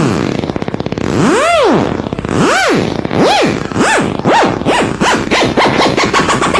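Cartoon-style whistle sound effect: a single tone swoops up and back down over and over, each swoop quicker and shorter than the last, until it runs into a fast warble near the end.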